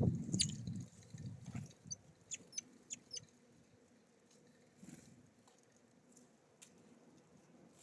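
Small songbirds calling at a feeder: a handful of short, high chirps in the first three seconds over low, louder noises in the first second and a half, then only faint background.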